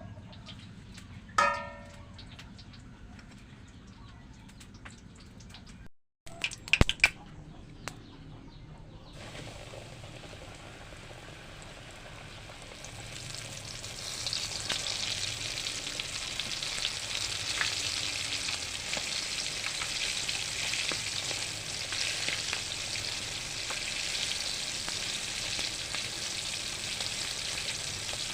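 Flour-coated chicken pieces frying in hot cooking oil, a steady sizzling hiss that builds and grows louder about halfway through. Before the sizzle builds there is a short squeak and, about seven seconds in, a few sharp clatters.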